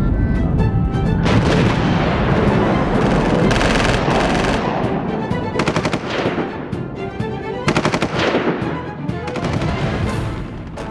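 Bursts of rapid machine-gun fire over music.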